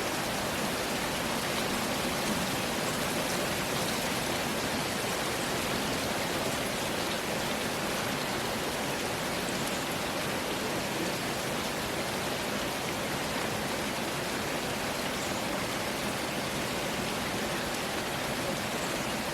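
Steady heavy rain falling, an even hiss with no distinct drops standing out.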